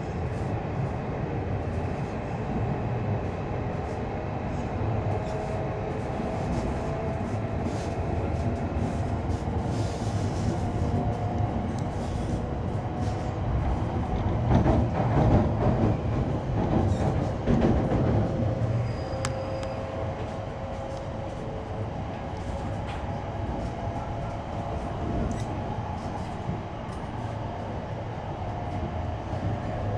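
Cabin noise inside an E5 series Hayabusa shinkansen on the move: a steady low rumble of the running gear with a faint whine over it. It grows louder and rattles with quick clicks for a few seconds about halfway through.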